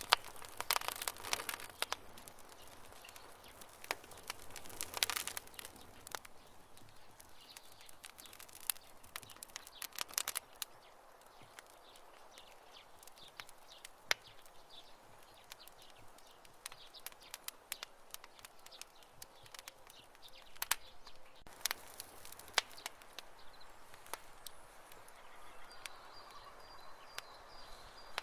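Wood fire crackling: irregular sharp pops and snaps, bunched into brief flurries near the start, around five seconds, around ten seconds and again a little past twenty seconds, with quieter stretches between.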